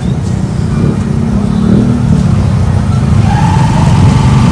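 Steady low rumble of a moving road vehicle's engine and road noise. A long held higher tone joins about three seconds in.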